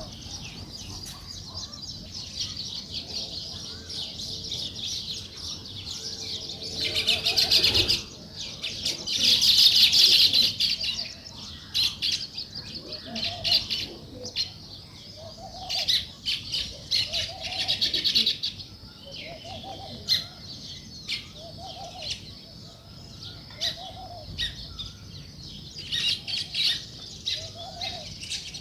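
House sparrows chirping continuously in a busy chorus, swelling into two louder bursts of chatter about a quarter and a third of the way in. A fainter, lower call repeats every second or two through the second half.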